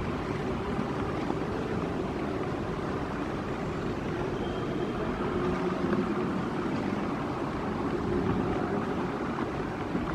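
Steady low rumble of outdoor street ambience, a continuous wash of distant traffic with no single event standing out.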